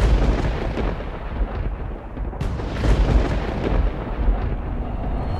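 Deep, continuous rumbling with sharp cracks and booms about two and a half and three seconds in.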